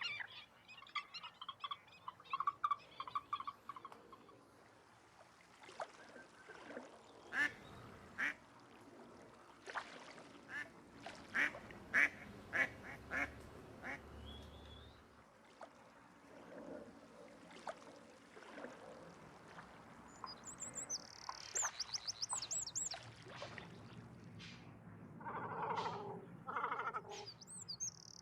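Lagoon birds calling: runs of short, quickly repeated calls near the start and again near the end, with scattered sharp calls in between and high whistled chirps from smaller birds about two-thirds of the way in.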